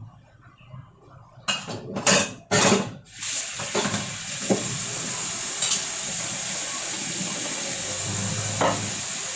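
A few loud clatters of cookware, then a steady hiss from the pot of chicken soup heating on the stove towards the boil.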